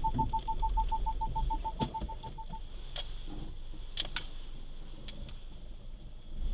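Electronic beeping, about seven short beeps a second at one steady pitch, stopping about two and a half seconds in. A few sharp clicks follow over a low rumble.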